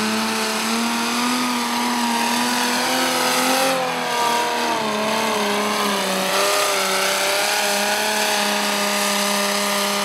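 Engine of a pulling vehicle running at high, steady revs under full load as it drags the sled. Its pitch wavers slightly, dipping briefly about four seconds in.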